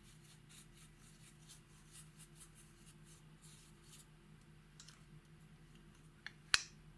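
Slime and makeup being worked by hand: faint, scattered crackles and scrapes, with one sharp click about six and a half seconds in.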